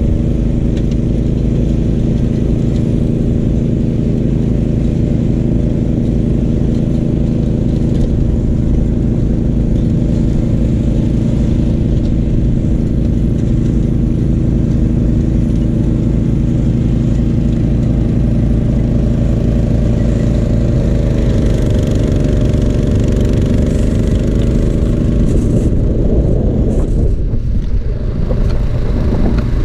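Gravely 430 walk-behind tractor's engine running steadily under load while driving its 38-inch snowblower. The engine note shifts slightly partway through and dips briefly a couple of seconds before the end.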